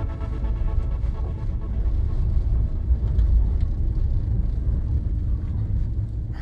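Steady low rumble of a passenger train running at speed, heard from inside the compartment of a RIC-gauge sleeping car.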